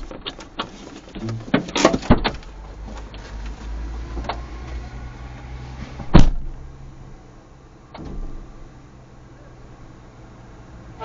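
Handling noises in a car: a run of clicks and knocks, then one loud sharp thump about six seconds in and a smaller knock about two seconds later, over a low steady hum.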